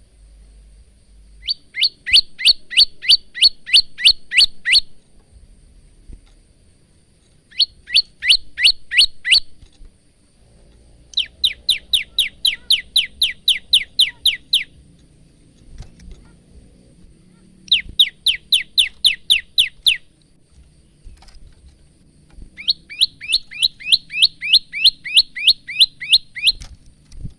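A male prenjak lumut songbird singing in five rapid trills of repeated sharp chirping notes, about four notes a second, each trill lasting two to four seconds with short pauses between.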